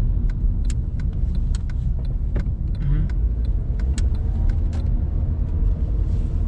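Car cabin noise while driving: a steady low rumble of engine and road, with scattered small clicks and rattles.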